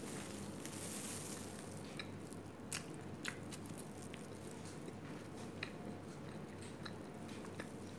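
Faint chewing of a mouthful of burger with the mouth closed, with a few soft, scattered mouth clicks over a low steady hiss.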